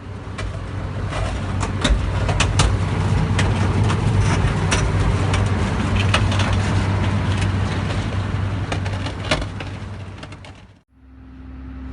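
A heavy construction machine's diesel engine running steadily, heard from inside the cab, with irregular clanks and knocks from the machine's work. The clip cuts off about eleven seconds in.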